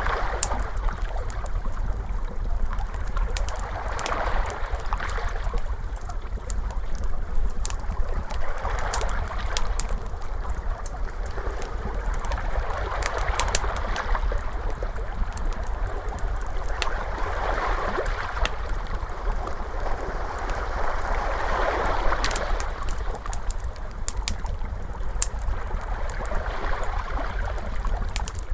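Crackling fire, with many sharp pops and snaps, over ocean waves washing in and swelling about every four to five seconds, and a steady low rumble beneath.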